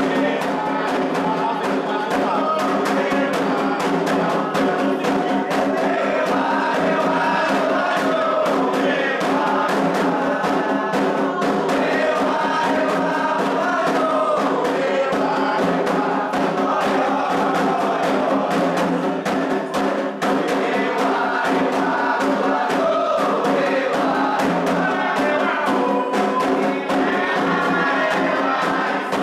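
Candomblé ritual music for Ewá: a group of voices chanting together over atabaque hand drums beating a steady, fast rhythm.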